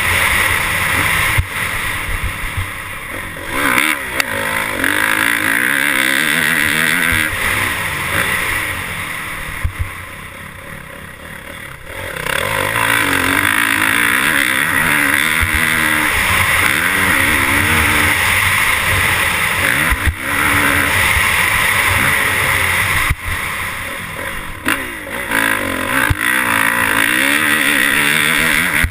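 Motorcycle engine revving, its pitch rising and falling over and over, with a quieter lull about ten seconds in before it picks up again.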